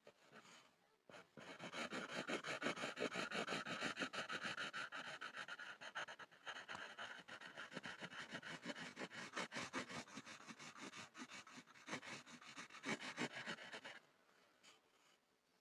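Pencil scribbling on a board: rapid back-and-forth scratching strokes that start about a second in and stop near the end.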